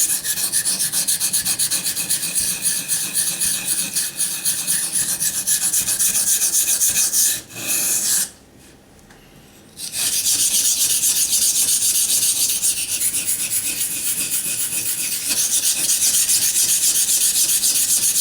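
Steel knife blade scraping back and forth on a wet Naniwa Chosera waterstone in rapid, even strokes, grinding out chips along the edge. The strokes stop for about a second and a half just past the middle, then resume.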